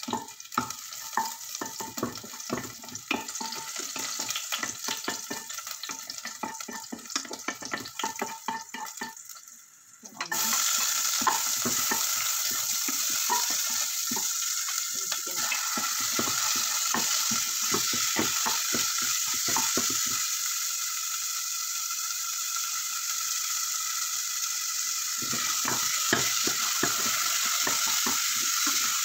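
Wooden spatula scraping and stirring in a small saucepan while garlic fries in oil. About ten seconds in, a loud steady sizzle sets in suddenly and keeps on, with chicken pieces frying in the oil and more stirring strokes near the end.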